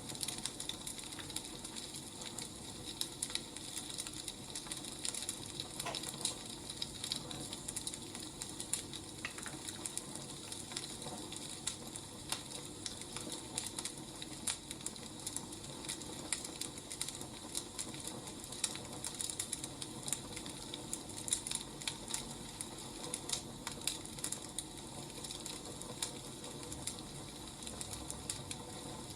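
Crackling wood fire: a steady hiss with dense, irregular small crackles and pops.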